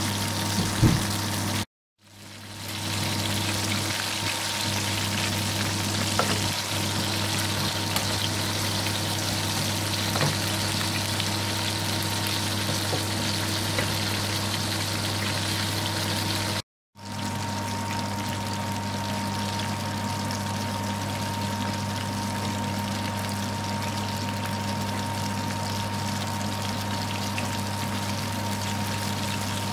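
Beef burger patties frying in shallow oil in a frying pan: a steady sizzle over a low steady hum, broken twice by a moment's silence.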